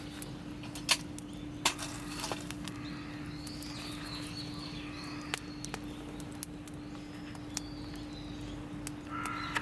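Wood campfire crackling with sharp, irregular pops, two of them louder than the rest, over a steady low hum.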